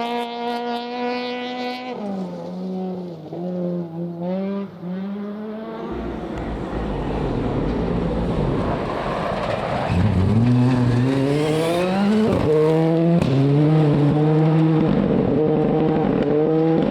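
Rally car engine running at high revs, then lifting off with short throttle blips on the downshifts. The car then accelerates hard again, climbing through several quick upshifts near the end.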